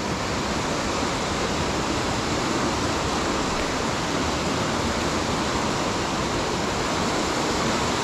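Fast-running river swollen with rain rushing steadily over rocks near a waterfall.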